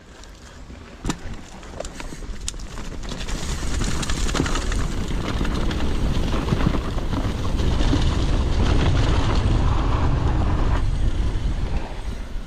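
Wind rushing over a helmet or chest camera's microphone on a mountain bike descent, building to a loud, steady rush as the bike picks up speed. Tyres rumble over loose, rough trail, with a few sharp knocks from the bike in the first seconds.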